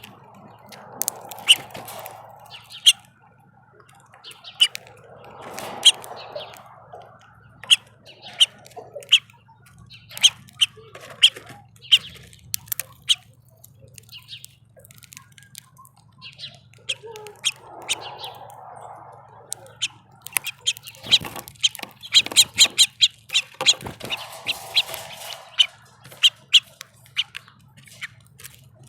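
Small feeder birds chirping, many short sharp chirps in quick succession that come thickest about three quarters of the way through.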